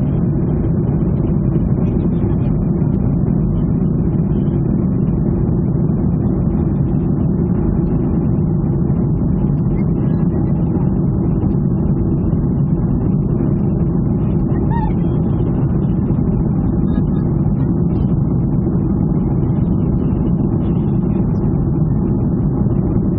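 Steady drone of a Boeing 737 airliner's jet engines and rushing air, heard inside the passenger cabin, deep and unchanging.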